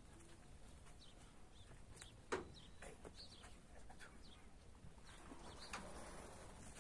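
Near silence: faint rural ambience with scattered soft bird chirps and a faint knock a little over two seconds in.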